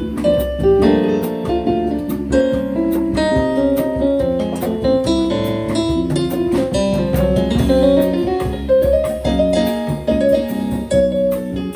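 Live jazz band playing, with piano to the fore over bass and light drums.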